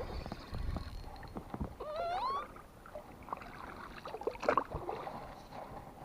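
Handling noise of a freshly landed chub and the spinning tackle: scattered clicks and knocks, a short rising squeak about two seconds in, and a louder knock about four and a half seconds in.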